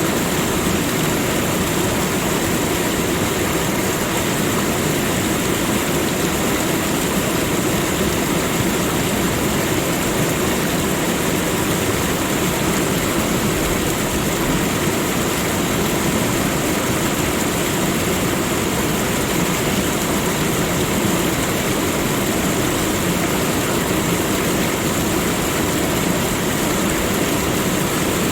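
Waterfall: falling water in a steady, unbroken rush.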